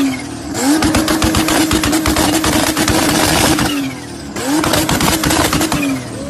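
Car engine revved and held at a steady high pitch in two long stretches, dipping briefly between them and falling away near the end, with the exhaust crackling and popping rapidly throughout.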